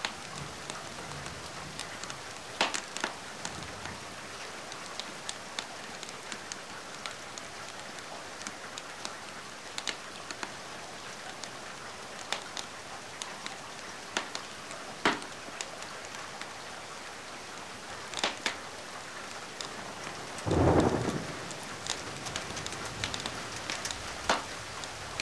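Steady rain hiss with occasional sharp pops of a crackling wood fire, and a short low rumble about four-fifths of the way through.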